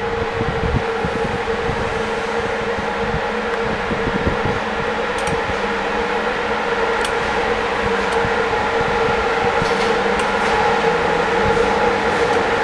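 Train running by, a steady loud hum with a strong held tone over a rushing noise, slowly growing louder as it approaches.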